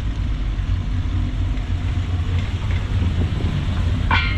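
A car engine running with a steady low rumble. A brief higher-pitched sound comes near the end.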